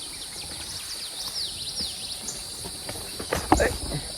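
Steady high-pitched insect chorus of crickets or cicadas in forest, with a run of short falling chirps in the middle and a brief low knock and rustle about three and a half seconds in.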